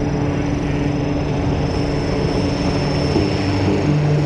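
An engine running with a steady drone that holds one pitch.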